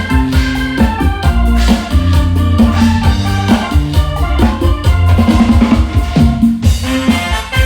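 An electronic keyboard ('organ') and drums playing an instrumental duet, loud and amplified, with sustained keyboard chords over a heavy bass and regular drum hits.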